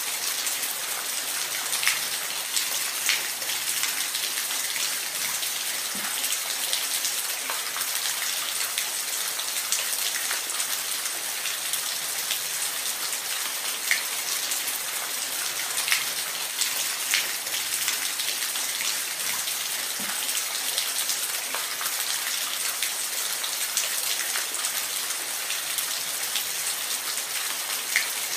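Steady hiss of falling water, with scattered sharp drip and splash sounds over it.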